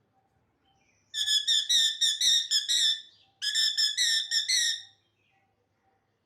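Parrot whistling loudly in two runs of quick, shrill notes: a longer run starting about a second in, then a shorter one after a brief break.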